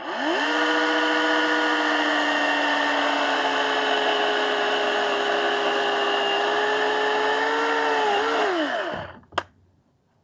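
Electric chainsaw spinning up from silence, running at a steady high whine for about eight seconds, then winding down to a stop. A single sharp click follows just after it stops.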